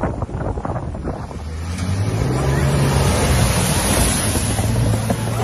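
A vehicle engine running with a steady low hum, under a loud rushing noise that builds up about two seconds in.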